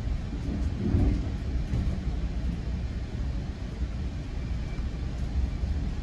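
Steady low rumble of a GO Transit passenger train running along the track, heard from inside the coach, with a brief swell about a second in.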